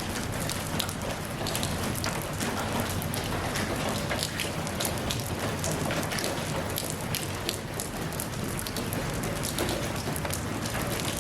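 Steady rain falling, an even hiss with many individual drops ticking sharply on surfaces close by.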